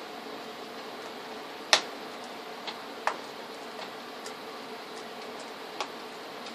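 A few short, sharp clicks and taps at uneven intervals over a steady hiss, the loudest about two seconds in.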